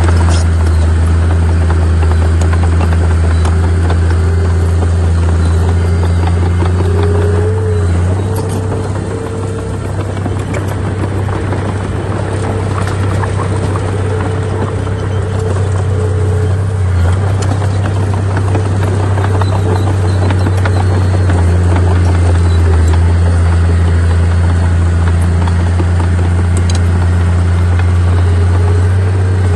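Heavy diesel engine of earthmoving machinery running steadily under load with a deep, constant hum, easing slightly about a third of the way in before building back up.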